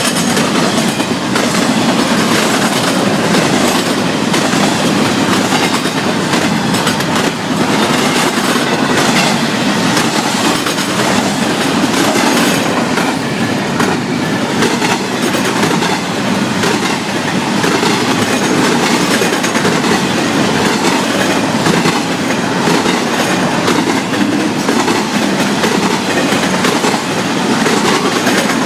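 Florida East Coast Railway freight train's cars rolling past at speed: a steady, loud rolling noise with frequent wheel clicks.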